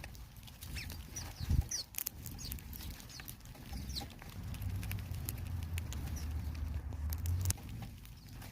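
Small birds giving short, high chips now and then over a low wind rumble, with scattered faint clicks and taps.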